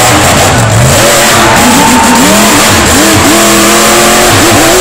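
Monster truck engine revving hard and loud, its pitch climbing and falling several times as the throttle is worked, held high for about a second toward the end before dropping.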